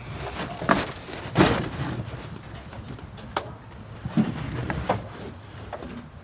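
Car interior carpet being pulled out of a 1986 VW Polo's floor: a handful of sharp knocks and clatters with a short scraping rustle, as the carpet and its clips come free.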